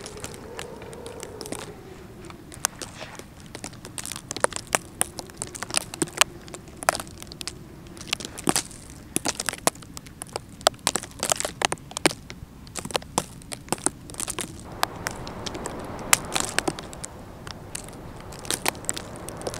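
Irregular crunching and crackling of footsteps and gear being handled on frozen snow and frosted grass, made of many sharp clicks at no steady rhythm.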